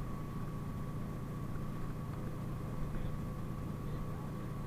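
Cabin noise inside a PAZ-32054 bus: a steady low engine and road rumble with a thin, steady high whine over it.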